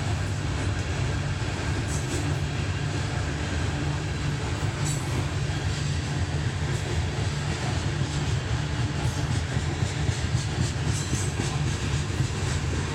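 Coal train rolling past: a steady low rumble of railcars on the rails, with occasional brief high squeaks and clicks from the wheels.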